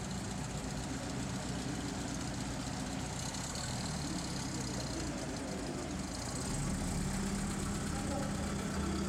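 Vintage Citroën Traction Avant's engine idling close by, a steady low running note that grows slightly louder about two-thirds of the way through.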